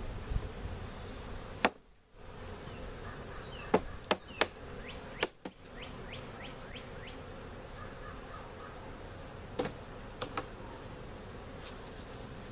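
Honeybees buzzing steadily around an open hive, with several sharp clicks and knocks spread through.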